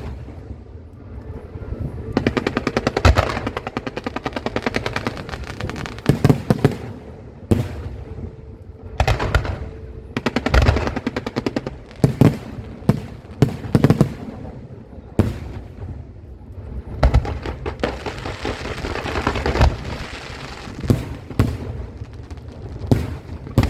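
Aerial fireworks display: shells bursting overhead with heavy booms, mixed with rapid strings of crackling reports that run for a second or two at a time.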